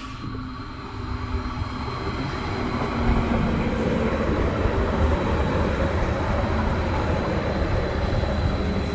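A train running by close at hand, its rumble growing louder over the first three seconds and then holding steady, with a thin high whine over it.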